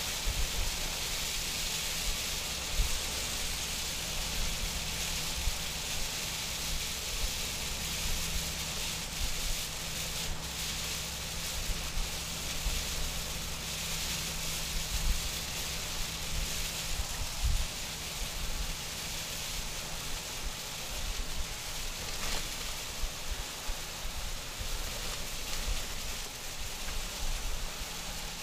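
Steady hiss of heavy rain and tyre spray heard inside a Volvo 730 semi truck's cab at highway speed, over a low engine hum, with scattered low thumps.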